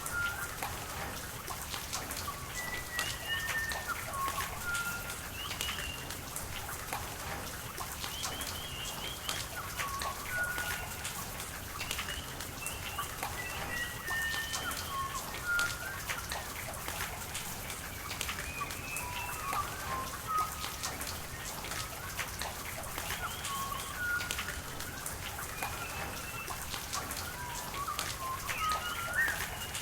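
Steady rain with raindrops ticking and water running, while birds call over it in short, high chirps scattered all through.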